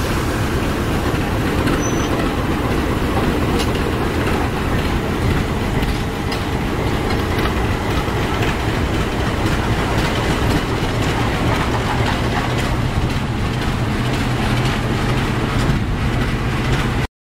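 Diesel locomotive hauling the Seruni train set: steady engine rumble with rail and wheel clatter from the moving train, cut off abruptly near the end.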